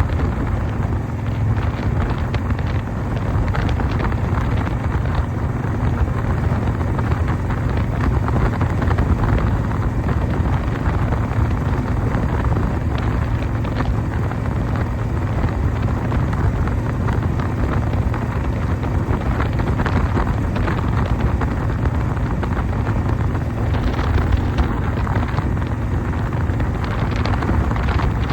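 1988 Harley-Davidson Softail's 1340 cc Evolution V-twin running steadily under way, with wind buffeting the microphone.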